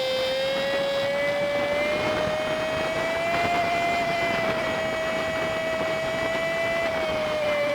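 Honda Super Cub 50's single-cylinder engine running under way, sped up fivefold so it comes out as a high, steady whine. The pitch creeps up over the first few seconds, holds, then starts to drop near the end.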